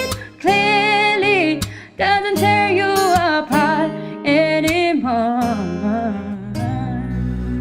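A voice singing a melody over instrumental accompaniment with guitar. The singing stops at about six and a half seconds in, leaving the accompaniment playing on its own.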